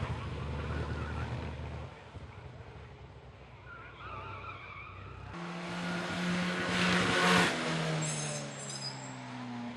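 Classic car engines running on a hillclimb course. A low engine rumble fades after about two seconds. About five seconds in, a louder engine note starts abruptly and swells to a peak at around seven seconds, then drops to a lower steady pitch.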